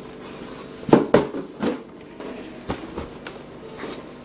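A cardboard shoe box being handled, with a few short knocks and scrapes. The loudest are two close together about a second in.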